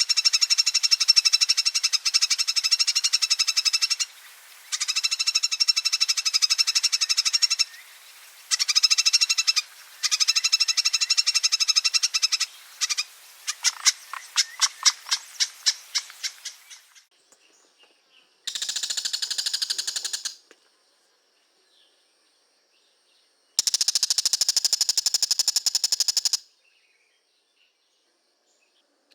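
Oriental magpie-robin (kacer) giving its long 'ngekek' chatter: very fast, high repeated notes in long runs broken by short pauses, then a rattle that slows and fades about 13 to 17 seconds in, followed by two short bursts of chatter with silence between them.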